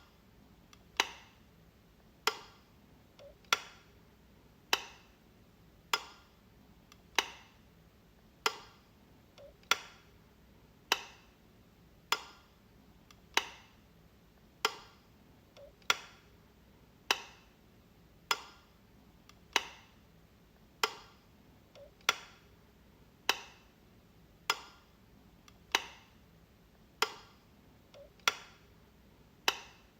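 Wall light switch clicking, one sharp click about every 1.2 seconds at a steady pace, with a much fainter click now and then between them.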